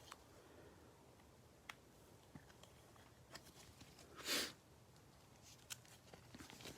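A quiet room with faint scattered ticks and clicks of trading cards being handled. About four seconds in comes one short, loud sniff.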